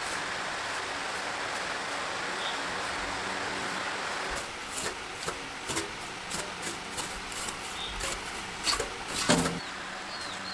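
A steady rasping, rubbing noise for about four seconds, then scattered light clicks and knocks, the loudest a little before the end.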